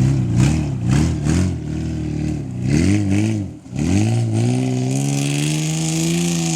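1995 Toyota T100 pickup's engine revving up and down repeatedly. It dips sharply about three and a half seconds in, then climbs and holds at a steady higher speed.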